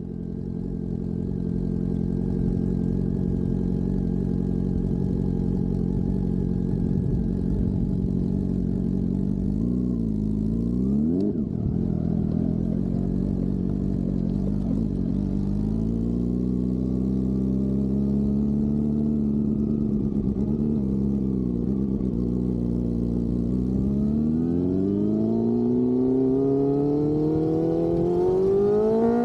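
Honda CB400SF's inline-four engine running, its pitch jumping up and dropping back about ten seconds in, then climbing steadily over the last few seconds.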